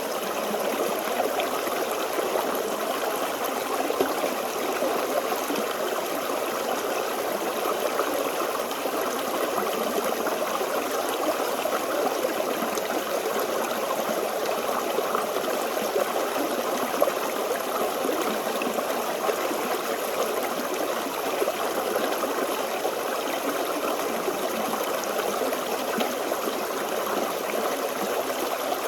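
Shallow stream running steadily over stones, a continuous babble with fine gurgling ripples.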